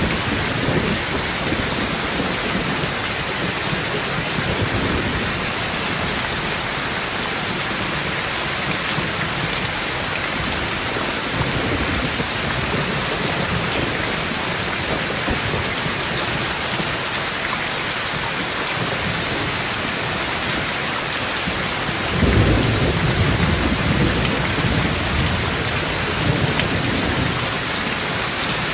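Steady rain falling during a thunderstorm, with thunder rumbling in the distance; the loudest roll of thunder begins about three-quarters of the way through and rumbles on for several seconds.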